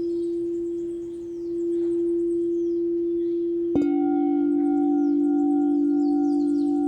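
Singing bowl ringing with one steady, sustained tone. A little under four seconds in, a lower-pitched bowl is struck and rings on with a clear deep tone and higher overtones. Faint high chirps sound above the tones.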